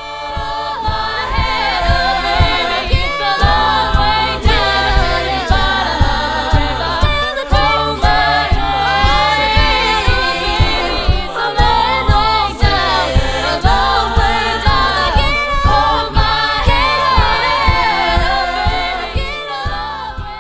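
High school contemporary a cappella group singing in harmony, with no instruments, over a steady low beat.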